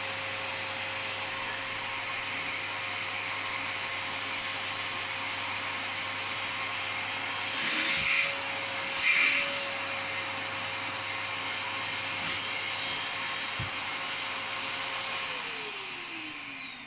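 Vacuum cleaner running steadily with a whine, briefly louder twice near the middle. Near the end it is switched off and the motor winds down, its whine falling in pitch.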